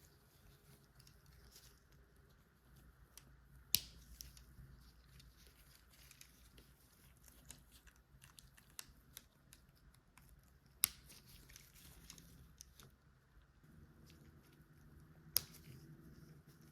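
Plastic LEGO pieces being handled, with three sharp clicks as bricks are pressed together, spaced several seconds apart, and soft rustling between them.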